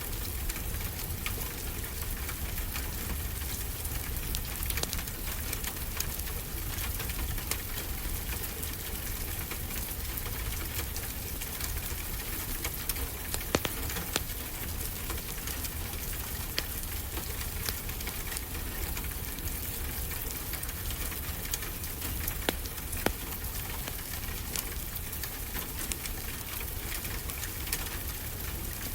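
Fireplace crackling with frequent small snaps and a few louder pops, over the steady hiss and low rumble of ocean waves.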